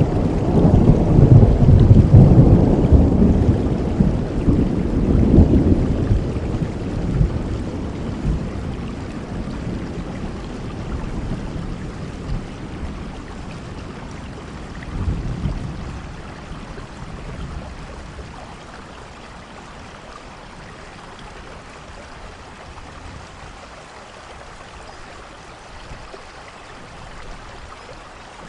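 Steady rainfall with a long roll of thunder in the first few seconds that slowly fades away, and a fainter rumble about halfway through.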